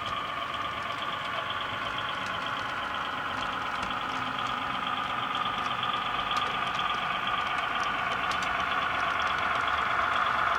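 HO-scale model train running: a steady engine-like hum with light ticking, growing louder toward the end.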